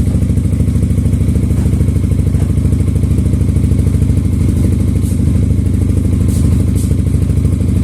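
Yamaha XMAX scooter's single-cylinder four-stroke engine, bored up to 300 cc, idling steadily through an aftermarket exhaust with a deep, bassy note.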